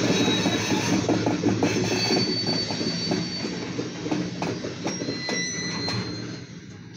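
Short grain hopper freight train rolling past, its wheels clicking over the rail joints with thin, high wheel squeals, heard from inside a car. The sound fades near the end as the train moves off.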